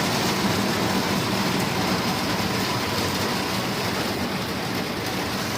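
Hailstorm with heavy rain falling, a steady dense rushing noise without a break.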